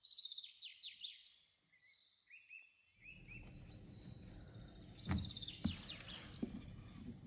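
Faint bird chirping, in runs of quick falling chirps. In the second half a few soft knocks come from the wooden rolling pin as dough is rolled out on the counter.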